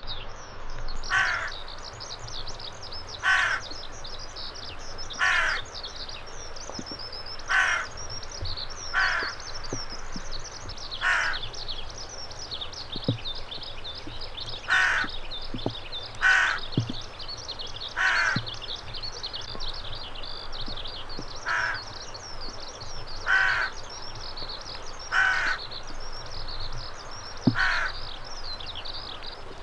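A crow cawing over and over, single harsh caws about every one to two seconds, with a steady high twittering of small birds behind.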